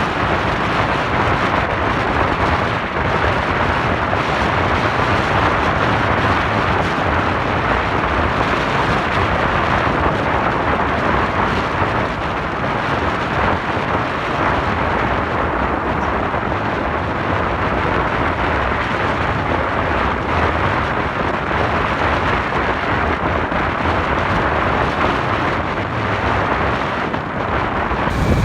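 Steady wind rush and road noise from a moving motorcycle, buffeting the microphone, with a low rumble underneath.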